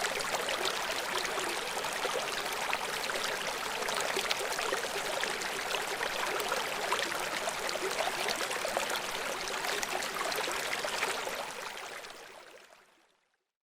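River water rushing and splashing over rocks below a waterfall, a steady dense rush full of small splashes, fading out to silence near the end.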